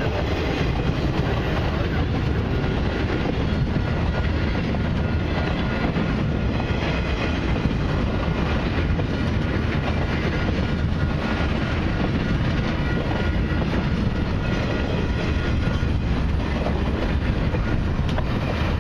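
Long intermodal freight train of highway trailers on flatcars rolling steadily past: a continuous rumble and clatter of wheels on the rails.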